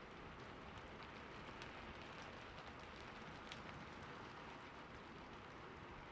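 Steady rain falling on a roof: a soft, even hiss with individual drops ticking through it here and there.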